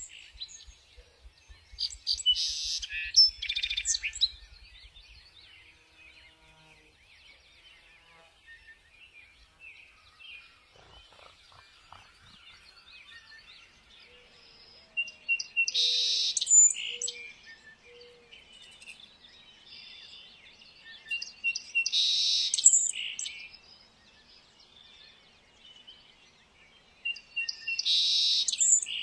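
A songbird singing four times, the later songs about six seconds apart, each a few short clear notes followed by a loud, buzzy trill.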